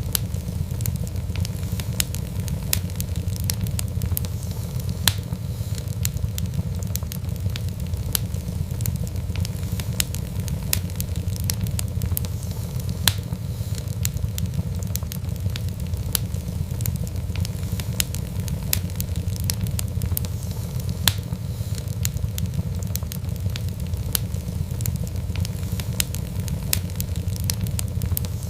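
Fireplace fire crackling: a dense run of small snaps and pops over a steady low rumble, with a few louder pops scattered through.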